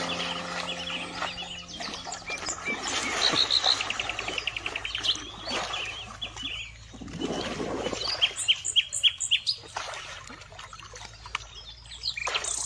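Birds chirping: many short high notes and quick trills, some in rapid runs, at irregular intervals. Soft music fades out about two seconds in.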